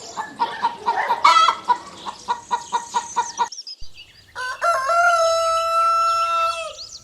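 Domestic hens clucking in a quick run of short calls, then, after a brief gap, one long held call lasting about two seconds.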